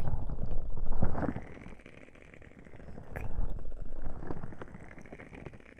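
Ear cupping on a 3Dio binaural microphone's ears: muffled, low rubbing rumble that swells near the start and again around the middle, with the highs dulled as the ears are covered. A few faint crackles from a wood-wick candle come through.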